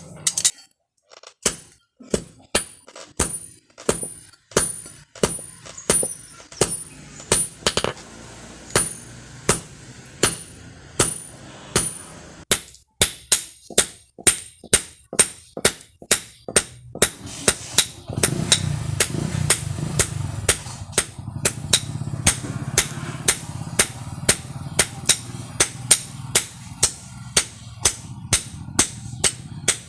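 Hand hammer striking steel in a steady rhythm, each blow ringing brightly, the blows coming quicker about halfway through. A low hum runs under the blows in the second half.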